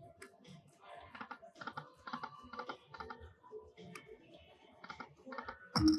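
Casino floor din from slot machines: scattered short clicks and faint electronic chime fragments, with a brief louder burst near the end.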